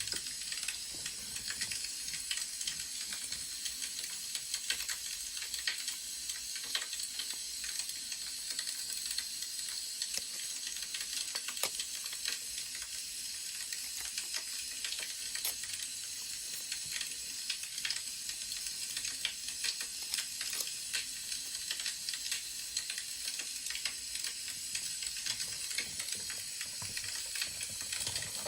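Wood fire crackling: a steady hiss with frequent small pops and snaps.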